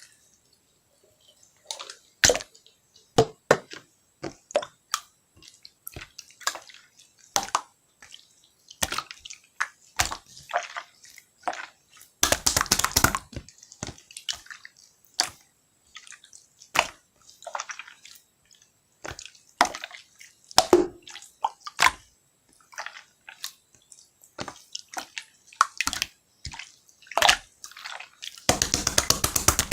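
Slime being pressed and squeezed by hand, giving irregular short wet pops and clicks, with two spells of dense rapid clicking about twelve seconds in and near the end.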